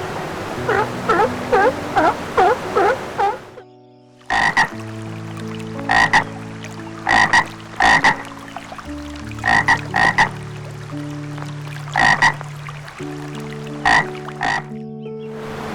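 Animal calls: first a rapid run of short rising-and-falling calls, about three a second. After a brief break, loud short croak-like calls come every second or two over low, steady held notes.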